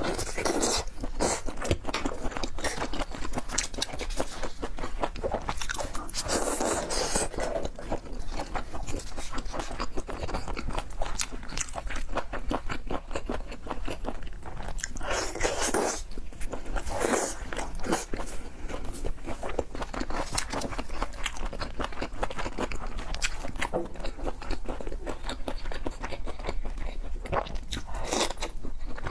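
Close-miked eating sounds: a person biting and chewing seafood, with a continuous run of small wet clicks and louder crisp crunches every few seconds.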